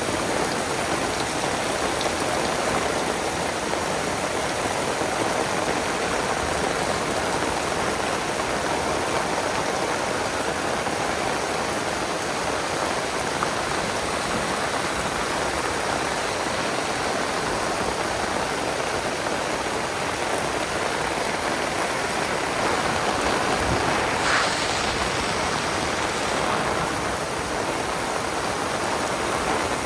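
Heavy rain pouring down steadily, a dense, even hiss of falling water. It swells briefly louder about three quarters of the way through.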